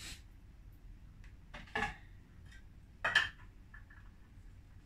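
Pots and utensils being handled: two short metallic clatters, one just before two seconds in and a louder one about three seconds in, with a few faint ticks between.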